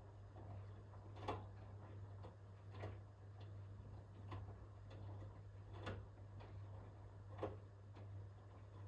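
Hoover H-WASH 500 front-loading washing machine turning its drum slowly in the early wash phase. The laundry drops with a soft knock about every second and a half over a steady low hum.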